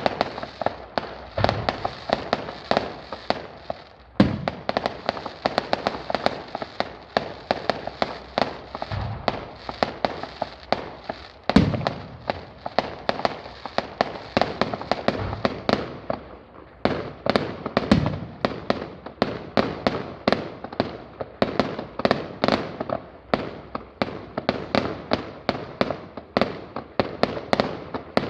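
Fireworks going off in rapid succession: a dense run of sharp cracks and bangs, several a second, with a few deeper booms among them.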